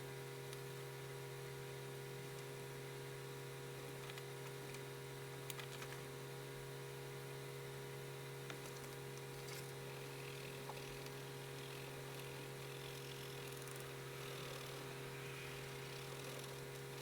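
Faint pencil scratching on paper with a few light ticks, over a steady electrical hum and hiss.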